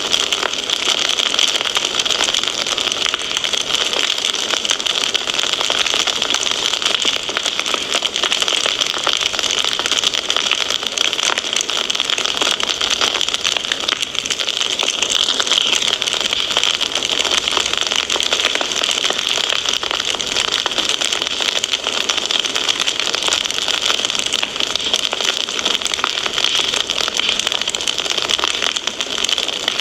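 Fire crackling steadily in a fireplace: a dense run of small pops and snaps over a continuous hiss, with no single loud pop standing out.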